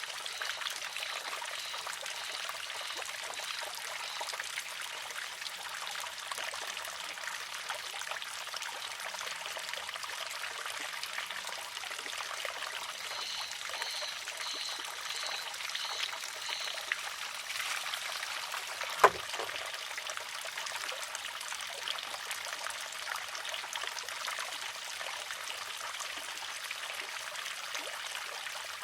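Water trickling steadily into a wooden shishi-odoshi, then one sharp, loud clack about two-thirds of the way through as the water-filled arm tips and strikes its rock. Faint high chirps repeat briefly around the middle.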